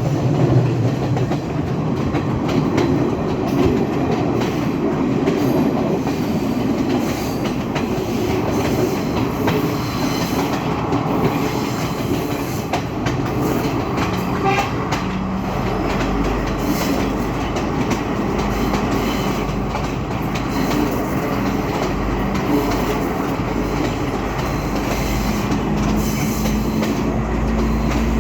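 Passenger train running along the track: steady rolling noise with wheel clatter and clicks from the rails. About halfway through a low steady hum and rumble join in and last to the end.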